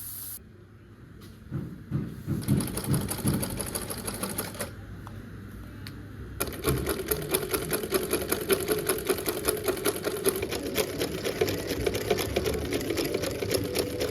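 Sewing machine stitching in quick runs, a fast even rattle of the needle. It starts about two seconds in, stops briefly in the middle, then runs on steadily.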